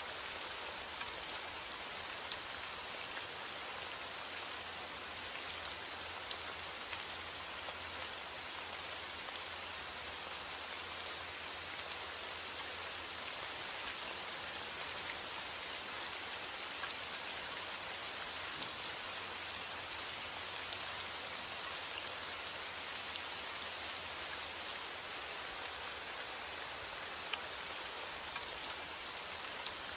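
Steady heavy rain falling on a surface: an even hiss dense with fine raindrop patter.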